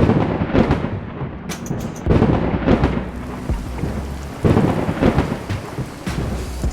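Thunderstorm: steady heavy rain with several loud rolling rumbles of thunder.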